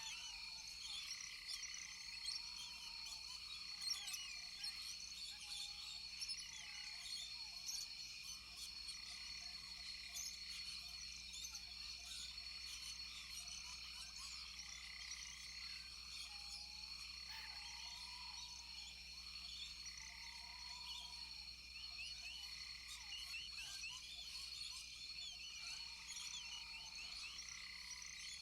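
Rainforest chorus of frogs and insects: a steady high drone with many overlapping short chirps and calls, some repeating every second or two.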